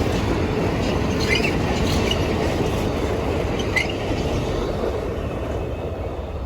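Added sound effect of a full-size train rolling by: a steady rumble with a few brief wheel squeals, fading near the end.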